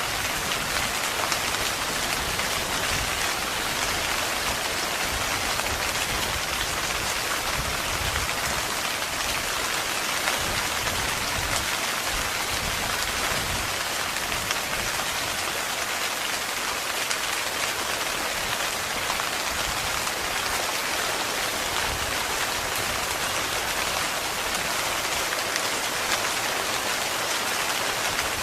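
Heavy rain falling steadily with dense, even pattering, as on a tent.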